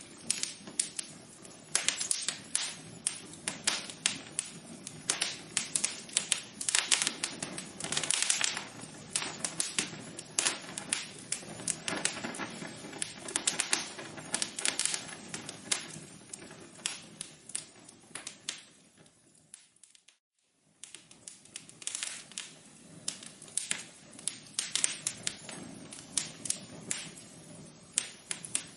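Wood fire crackling in a fireplace: a dense, irregular run of sharp pops and snaps over a low steady hiss. About two-thirds of the way through it fades out briefly to near silence, then comes back.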